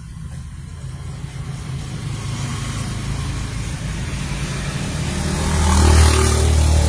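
Low engine rumble of a motor vehicle running close by, growing louder toward the end.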